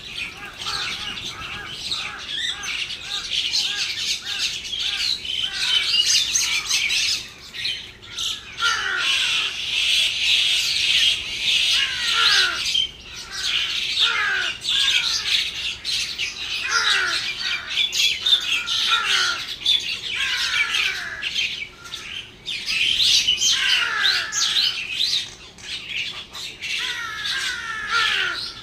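Many small birds chirping and squawking together in a dense, continuous chatter, with repeated calls that slide downward in pitch every second or two.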